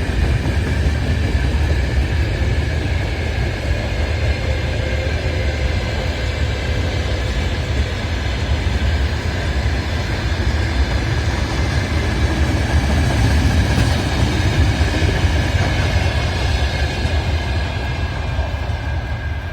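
Steady low rumble of a moving vehicle, with faint held tones above it, easing off slightly near the end.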